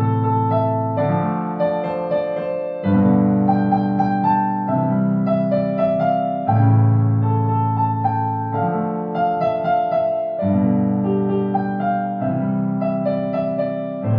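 Solo piano playing a slow melody over sustained bass chords, the harmony changing about every two seconds.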